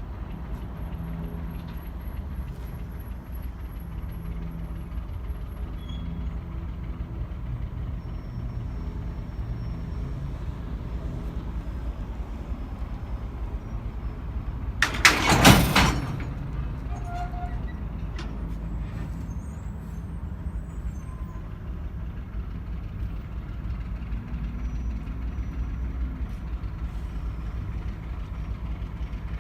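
Alco S-6 switcher locomotive's six-cylinder diesel engine running steadily at low revs. About halfway through, a loud hiss of air lasting about a second comes from the locomotive's air brakes venting.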